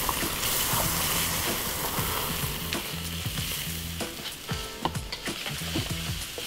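Prawns, onion, garlic and egg sizzling hard in a hot oiled wok as they are tossed and stirred, with scattered short clicks and scrapes of the utensil against the pan.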